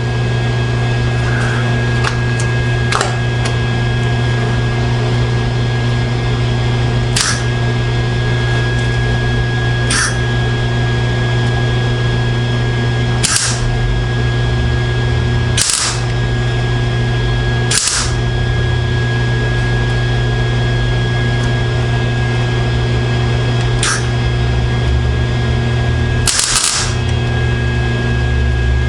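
MIG welder laying tack welds on a steel exhaust downpipe: about seven short crackling bursts a few seconds apart, over a steady machine hum.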